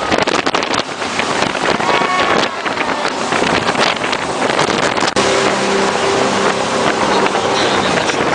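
Jet boat underway at speed: loud, rushing engine and water noise with heavy wind buffeting the phone's microphone. A steady engine note comes through clearly from about five seconds in.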